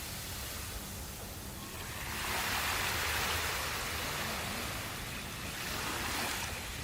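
Sea waves washing onto the shore: a hiss of surf that swells about two seconds in and slowly fades, with a smaller swell near the end, over a steady low rumble.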